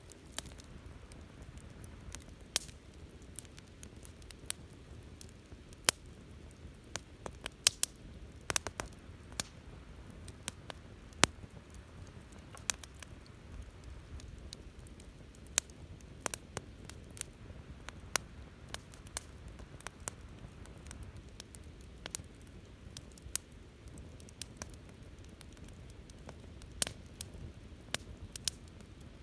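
Wood bonfire crackling: irregular sharp pops and snaps, sometimes several close together, over a low steady rumble of burning.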